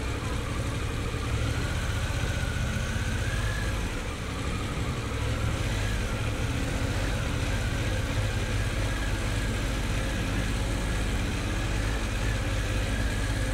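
Harley-Davidson Pan America Special motorcycle engine running steadily, heard from the rider's helmet.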